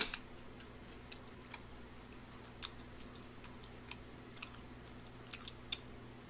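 Faint chewing and mouth clicks of someone eating tteokbokki with chopsticks, heard close to the microphone. A sharper click comes right at the start, then scattered small clicks over a steady low hum.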